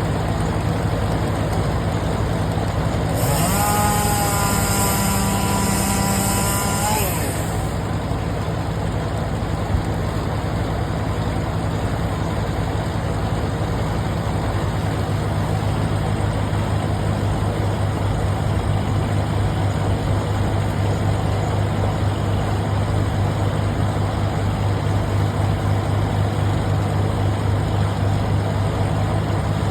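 Large engine running steadily at idle. About three seconds in, a whine rises and holds for about four seconds together with a high hiss, then stops.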